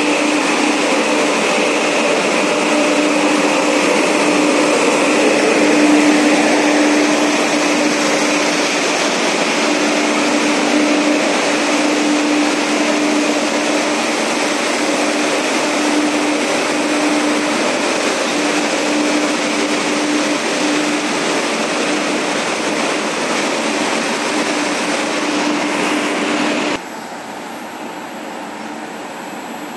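Steady mechanical drone of idling diesel trains standing at a station platform, with a humming tone that swells and fades. Near the end it cuts abruptly to a quieter steady hum.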